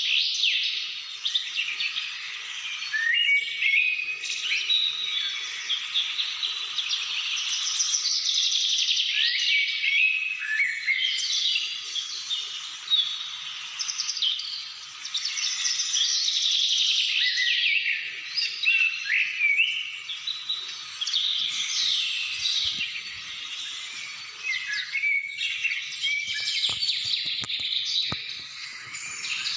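A chorus of several songbirds chirping and singing at once: dense, overlapping calls with quick rising and falling notes, never pausing for long.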